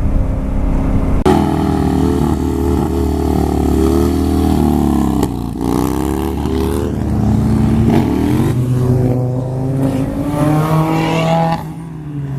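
Car engine running under throttle, revving up: its pitch dips about halfway through, then climbs again near the end.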